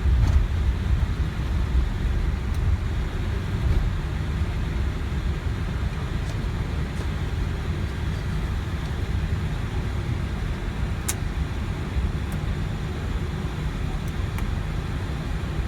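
Steady low rumble inside an Airbus A320 flightdeck as the airliner rolls along the ground after landing, its V2500 engines at idle. It eases slightly in the first few seconds, and a faint click comes about eleven seconds in.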